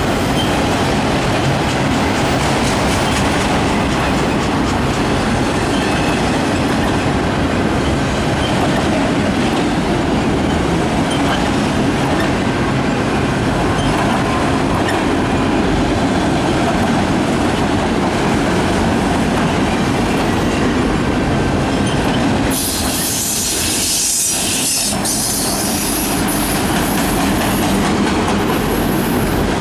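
Freight train cars rolling past at close range, with a steady rumble and clatter of steel wheels on the rails. A little after three-quarters of the way through, the low rumble drops away for a few seconds and a high hiss takes over.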